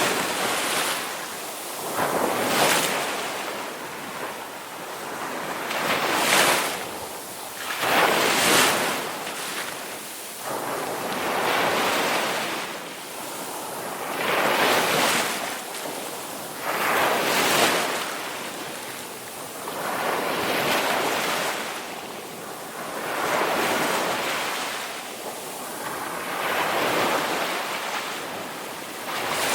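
Ocean surf: waves breaking and washing in, a swelling rush of hiss that rises and fades every two to three seconds.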